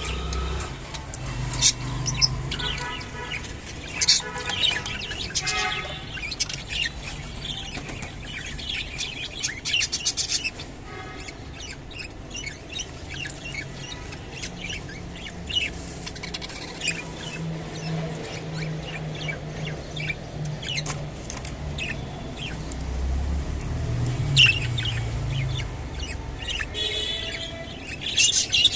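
Budgerigars chattering, with many short high chirps and warbles scattered throughout.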